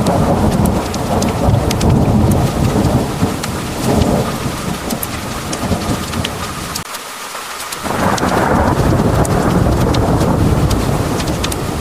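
Heavy rain pouring down with a deep rolling thunder rumble underneath and sharp individual drops ticking on hard surfaces. About seven seconds in, the low rumble briefly drops away, then everything swells back in loudly about a second later.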